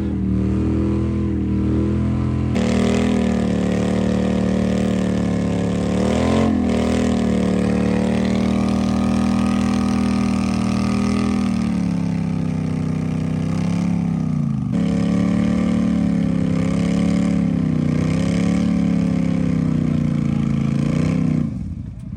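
ATV engine held at high revs under load while a quad is pulled out of deep mud; the pitch wavers up and down, dips briefly a little past halfway, and drops off near the end.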